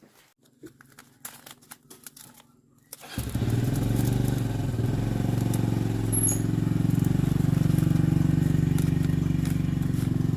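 A few faint clicks, then about three seconds in a motorcycle engine comes in suddenly, loud, and runs steadily at an even pitch.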